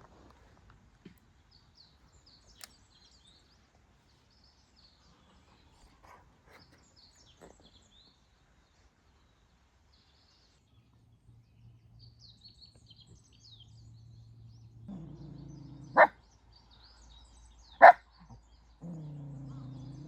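Cavalier King Charles Spaniel barking three short, sharp barks in the last few seconds, the first and last each preceded by about a second of low, steady growling. Faint bird chirps sound earlier.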